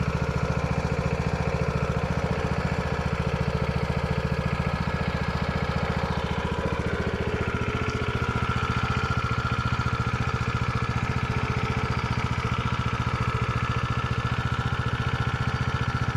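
Lancin 212cc single-cylinder four-stroke small engine running steadily on its first start, new out of the box, with even firing pulses. Its note shifts slightly about seven seconds in, when a higher whine comes in.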